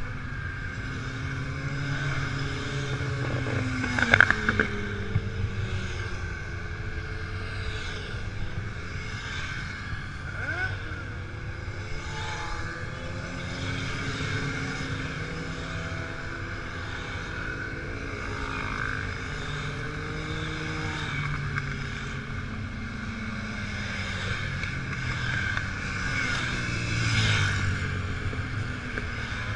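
Motorcycle engine running under way, its pitch rising and falling again and again as it speeds up and slows, over a steady hiss. A brief loud clatter about four seconds in.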